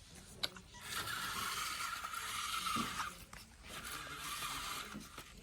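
Remote control toy tractor's small electric motor and gears whirring as it drives, in two runs of about two seconds and one and a half seconds with a short pause between, with a steady high whine.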